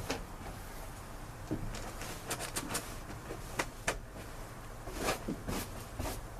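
A scatter of short, light knocks and scrapes over a low steady background, some coming in quick runs.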